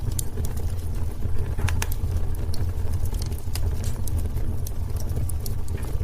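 Wood fire crackling in a fireplace: irregular sharp pops and snaps, a few stronger ones just under two seconds in, over a steady low rumble of the burning fire.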